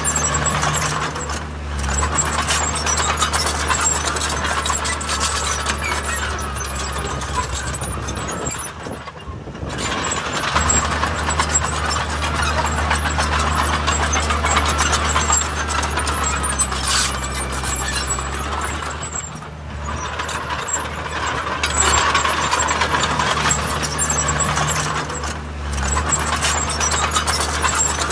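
Diesel engine of heavy earthmoving machinery running under load, with continuous metallic clatter over the engine drone. The sound eases briefly twice, about a third and two-thirds of the way through.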